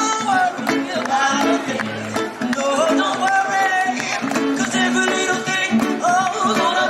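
Live reggae played by a street busker: strummed guitar accompaniment with a voice holding long sung notes.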